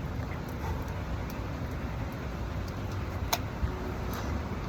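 Steady outdoor background noise with a low rumble, and one sharp click about three seconds in.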